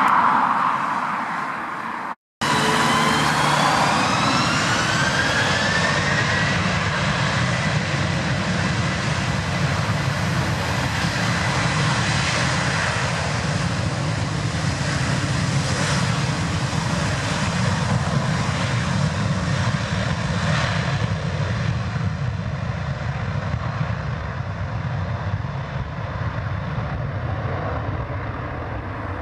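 Aer Lingus Airbus A330-300 twin-engine jet on its take-off run: a whine rises over the first few seconds as the engines spool up to take-off thrust, then the engines run on steadily, easing slightly near the end.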